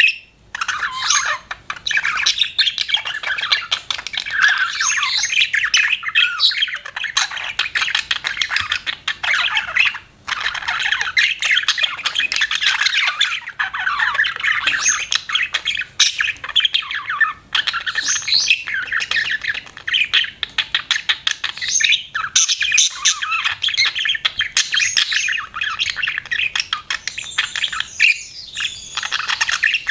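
Budgerigars chirping and chattering nonstop: a dense stream of rapid chirps mixed with harsher squawks, with only a few brief pauses.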